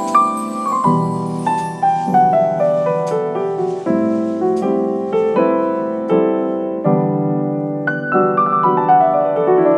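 Background piano music: gentle runs of notes stepping downward, repeated over and over.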